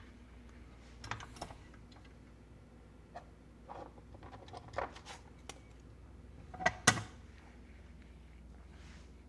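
Scattered light clicks and taps of small parts being handled against the case as a USB-C panel plug and its seal are fitted, with a sharper double knock about seven seconds in.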